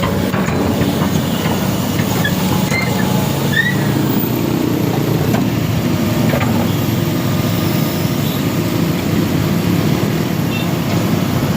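A heavy vehicle's engine running steadily under load, with a few short high squeaks over it.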